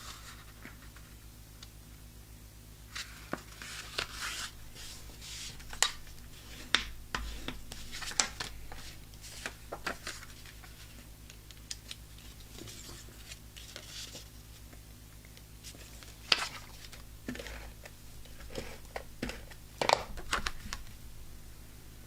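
Paper and cardstock being handled at a craft table: scattered light taps and clicks with brief rustles, over a low steady hum.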